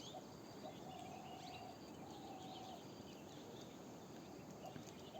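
Faint outdoor morning ambience: small birds chirping in short high calls, with a few held whistle-like notes at one steady pitch, two of them long, over a low even hiss.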